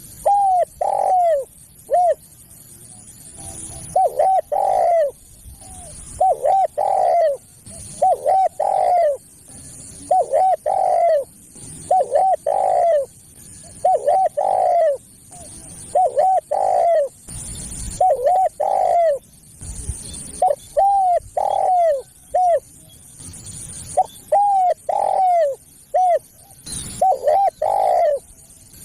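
Spotted dove (tekukur) cooing: a quick few coos ending in a longer, falling note, the phrase repeated about every two seconds. It is a recorded caller song, played to lure wild spotted doves.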